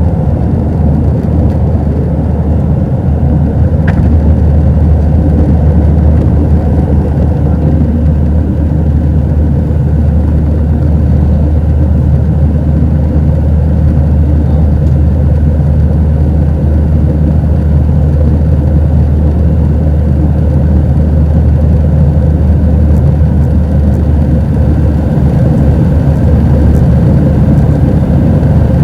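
Steady cabin noise of an Airbus A320-212: the CFM56 engines and the airflow rumbling evenly, with a faint constant hum, heard from inside the passenger cabin.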